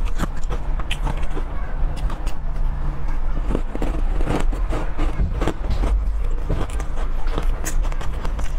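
Close-miked crunching and chewing of frozen chocolate: a run of sharp, irregular crunches over a steady low hum.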